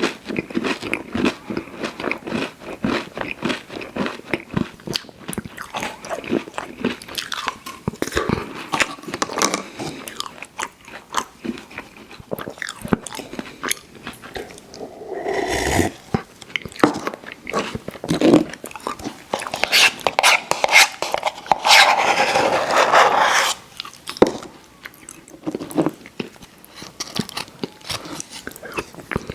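Close-miked biting and chewing of candy sweets, with crunching and many small wet clicks of the mouth; it grows louder and denser for a few seconds past the middle.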